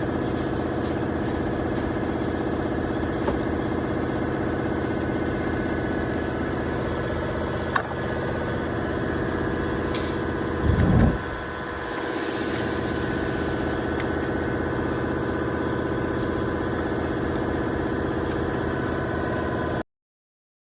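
BMW engine idling steadily, with a brief loud surge about eleven seconds in. The sound cuts off suddenly near the end.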